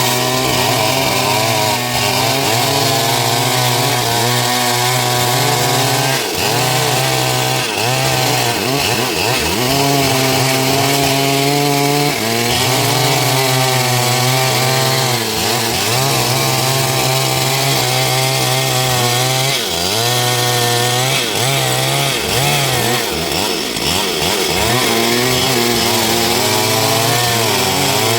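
Stihl MS 382 two-stroke chainsaw running at high revs while cutting dry wood. Its engine pitch sags and recovers again and again as the chain bites under load.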